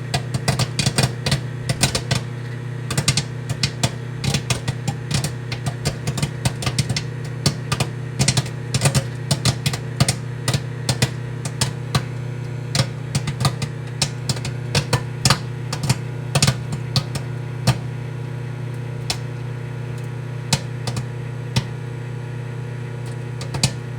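Microwave oven running with a steady hum while popcorn pops inside it, quick irregular pops at first that thin out to occasional pops over the last several seconds, a sign the batch is nearly done. The hum cuts off right at the end.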